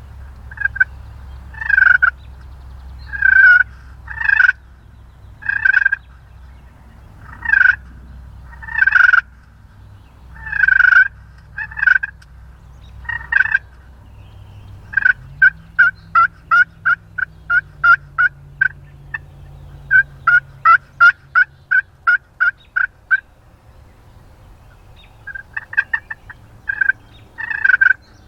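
Wild turkeys gobbling close by, one loud gobble after another about every second or so. In the middle comes a faster run of short, quick notes, about three a second.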